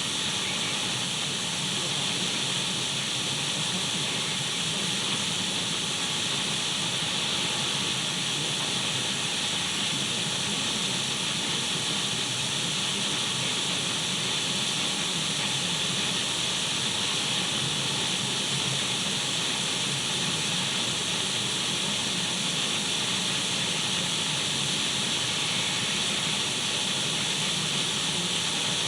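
Radio static: steady, unbroken hiss of an untuned radio, brightest in the upper-middle range, with a faint low rumble under it and a few faint steady whistling tones.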